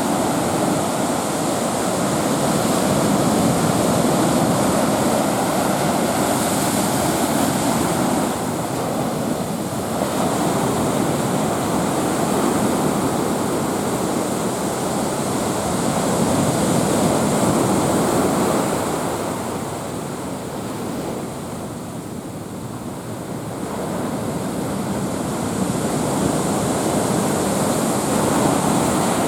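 Heavy sea surf driven by typhoon swell: a continuous rush of breaking waves that grows louder and softer in long surges.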